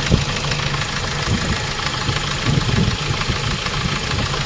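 Hyundai Starex Gold diesel engine idling with a steady, rapid knock, which the mechanic calls a loud fuel knock since the engine was overhauled after overheating.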